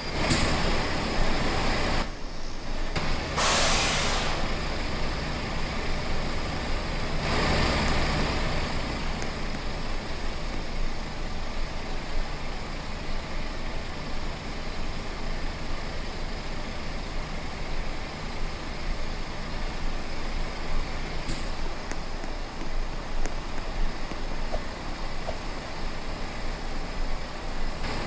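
Truck engine running steadily while driving on the road, with a few loud bursts of hiss: one right at the start, one about three seconds in, and a longer one near eight seconds.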